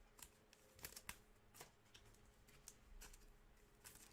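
Faint clicks and light scuffs of Panini Mosaic football cards being handled and flipped, about six small ticks spread unevenly over a few seconds.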